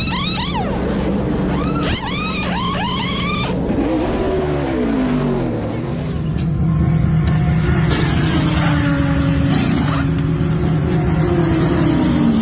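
Race pit stop: pneumatic wheel guns whine in rapid bursts for the first few seconds. Then a race car's engine dips and rises in pitch and settles into a steady drone, with further short bursts of noise over it.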